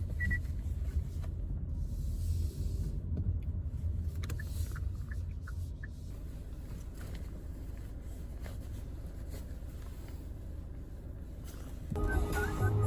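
Steady low rumble of road and engine noise inside a moving car's cabin. Music comes in near the end.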